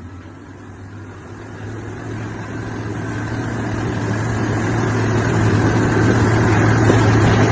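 Deep rumble of a large ship: a steady low hum under a rushing noise that grows steadily louder.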